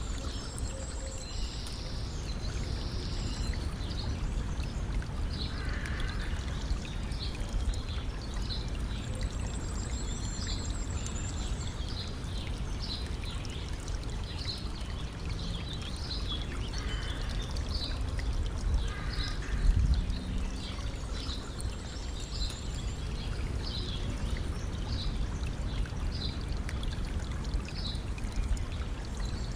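Stream water trickling and pouring steadily, with small birds chirping again and again throughout and now and then a higher trill. There is a brief low bump about two-thirds of the way in.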